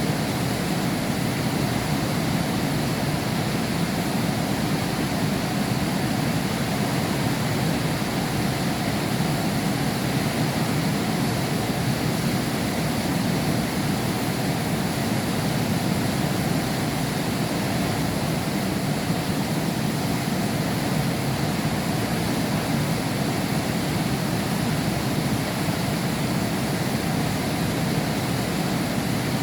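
Heavy rain falling steadily, heard from behind window glass: a dense, even hiss with no thunder or separate drops standing out.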